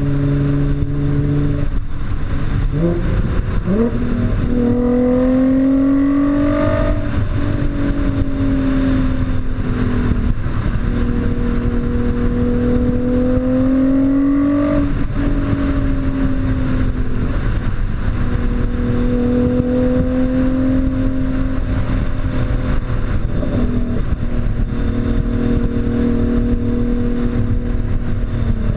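Nissan GT-R with an HKS aftermarket exhaust being driven. The engine note climbs under throttle and drops sharply at each gear change, several times over.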